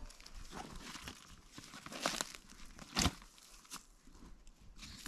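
Rustling and crinkling of something being handled, with sharper crackles about two and three seconds in.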